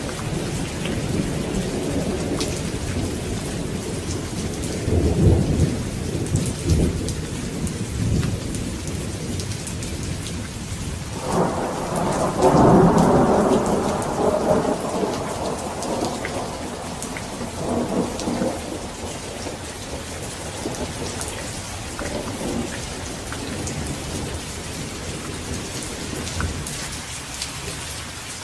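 Steady rain with rolling thunder. Low rumbles come about five seconds in; a louder peal starts suddenly about eleven seconds in and rolls on for several seconds, and fainter rumbles follow later.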